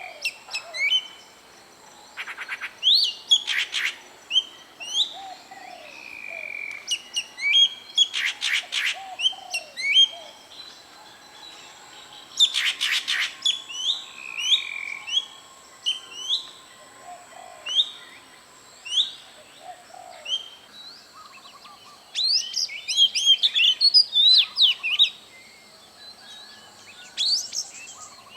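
Wild birds calling, mostly short rising chirps repeated every second or so. There are three loud rattling trills, and a dense flurry of chirps about three quarters of the way through. A faint steady high whine runs underneath.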